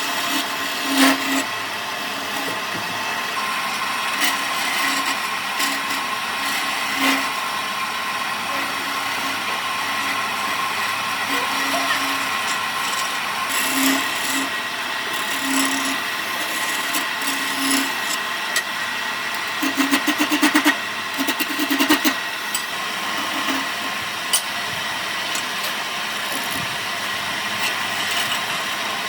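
An electric power tool running steadily with a high whine, its sound shifting as it works the wood, with a rapid buzzing rattle about two-thirds of the way through.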